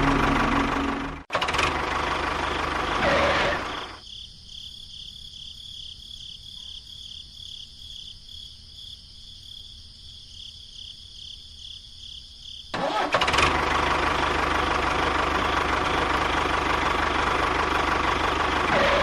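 A motor running: loud for about four seconds, then much quieter for about nine seconds with a faint high whine and even ticking, then loud again.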